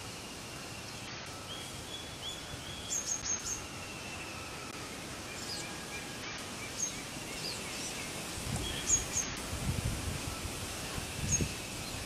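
Birds giving short chirps and whistles over a steady outdoor hiss. Low rumbling thumps come in during the last few seconds.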